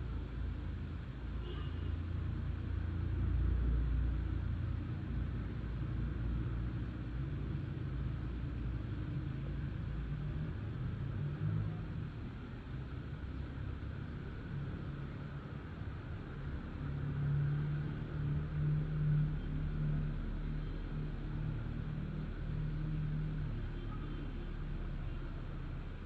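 Cat purring, a steady low rumble that swells for a few seconds in the second half.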